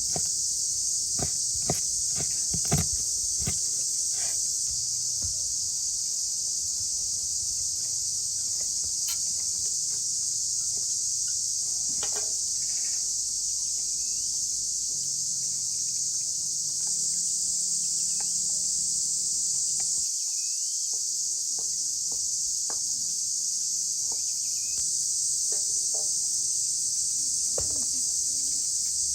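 Steady high-pitched insect chorus, continuous throughout, with a few sharp knocks in the first few seconds.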